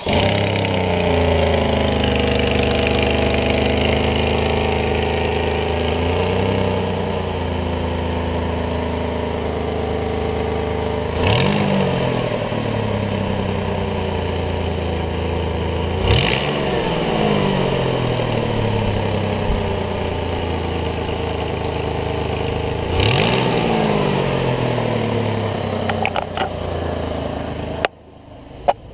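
A 2017 Cadillac XTS 3.6L V6 engine running at a steady idle, revved sharply three times, each rev dropping back to idle. It shuts off near the end.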